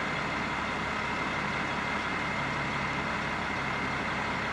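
A crane's engine running steadily as it lifts a heavy timber-frame section, with a faint steady high whine over the engine noise.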